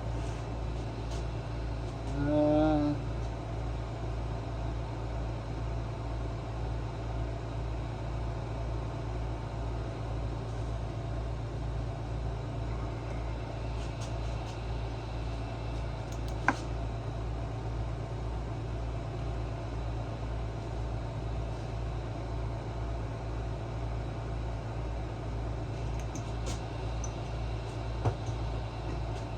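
A steady low mechanical hum with a fast, even pulse, with a brief voice about two seconds in and a single sharp click around the middle.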